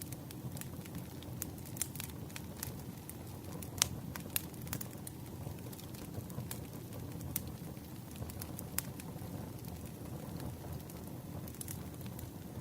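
Wood campfire crackling: a steady low rumble of flame with irregular sharp pops and snaps, the loudest about four seconds in.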